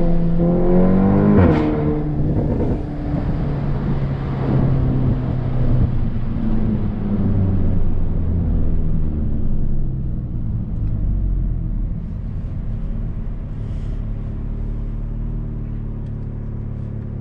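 Tuned VW Golf GTI TCR's turbocharged 2.0-litre four-cylinder, with a Milltek 3-inch downpipe and no particulate filter, heard from inside the cabin. It accelerates with a rising note, gives a sharp crack at a gear change about a second and a half in, and pulls again. It then settles to a steady, quieter cruise over the last several seconds.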